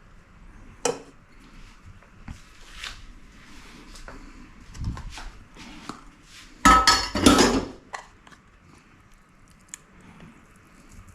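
Cutlery and dishes clinking and scraping in scattered short knocks and scrapes, with a louder clatter lasting about a second near two-thirds of the way through.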